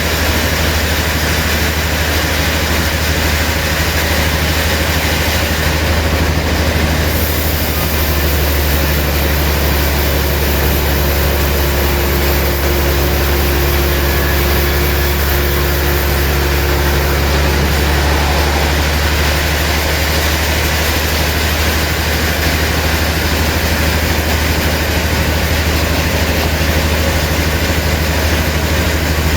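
Sawmill machinery running steadily with a deep, even hum. A faint higher tone sounds for several seconds near the middle.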